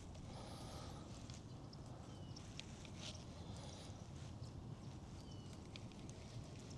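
Faint bird calls, a few thin high whistles and short chirps, over quiet open-air background with scattered light clicks.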